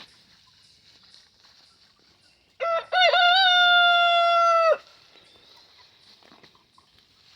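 Rooster crowing once, about two and a half seconds in: a few quick broken notes leading into one long held note that drops off at the end.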